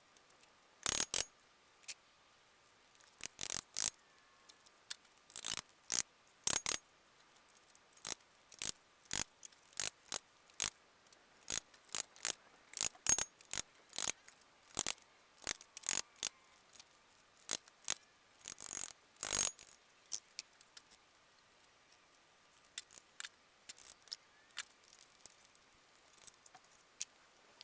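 Installation work sounds played back at twenty times speed, so that they come out as an irregular string of short, sharp clicks and ticks. The clicks are loudest about a second in and again near the two-thirds mark, and grow sparse near the end.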